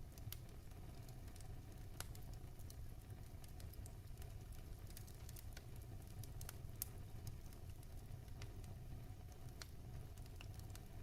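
Wood fire burning in a fireplace: a faint low rumble of the flames with scattered crackles and pops from the logs.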